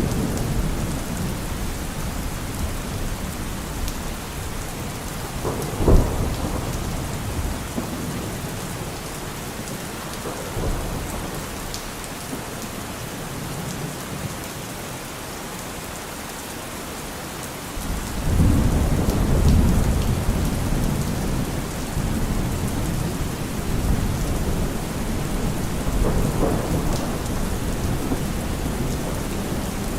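Steady rain with thunder. A sharp crack of thunder about six seconds in is the loudest moment. From about eighteen seconds a long low rumble lasts several seconds, and another rumble comes near the end.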